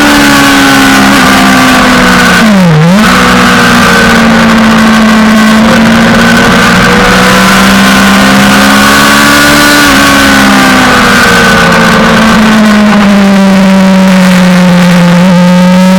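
Suzuki GSX-R600 inline-four engine running hard at high revs, heard from on the bike over loud wind rush. The revs drop sharply and pick straight back up about three seconds in, then rise and fall gently and settle to a steady pitch near the end.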